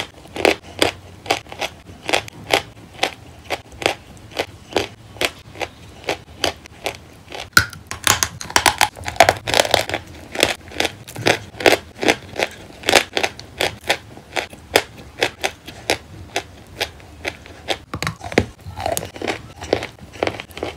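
A person chewing a mouthful of wet chalk paste, a steady run of chews at about two to three a second.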